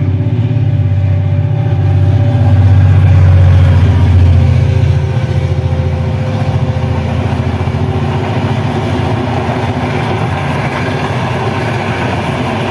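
Diesel-hauled passenger train passing at speed. The locomotive's engine is loudest in the first few seconds, then the coaches' wheels run steadily past on the rails.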